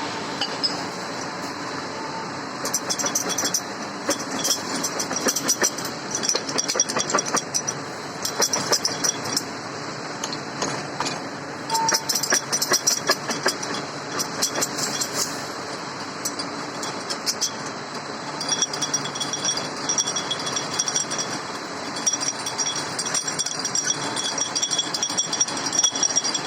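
Automatic machine tool running, with rapid clicking and stretches of high-pitched cutting sound that start and stop every several seconds.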